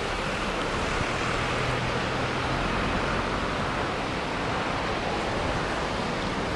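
Heavy ocean surf, a steady unbroken rush of large breaking waves.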